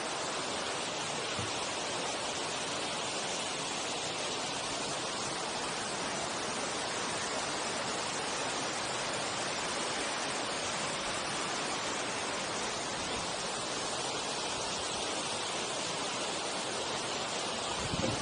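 Steady rushing of the Giang Dien waterfall, an even wash of falling water, with a brief low bump near the end.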